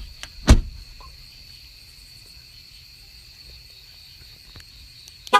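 Crickets chirring steadily in the night, with one loud thump about half a second in.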